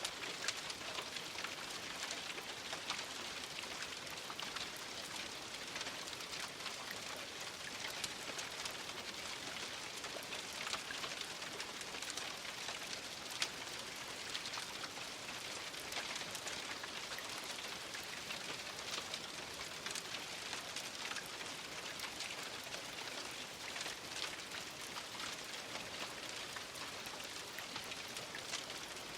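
Steady rain falling, a continuous hiss with many close individual drops pattering on a surface.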